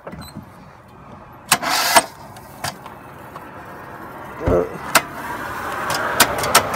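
Attempt to start a 2006 Kia Rio whose engine has thrown a rod on cylinder 3 and seized: a half-second burst of noise, a thump, then a run of sharp clicks, and the engine never runs.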